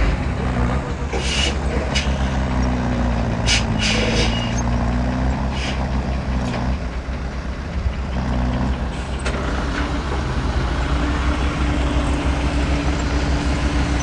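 Heavy diesel engine running steadily, with several brief high-pitched hisses in the first half.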